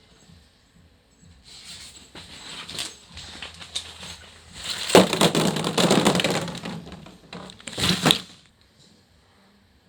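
Small plastic ball-pit balls clattering and rustling against each other as they are stirred or poured. It comes in waves of many quick clicks, heaviest from about five to seven seconds in, with a last burst near eight seconds before it stops.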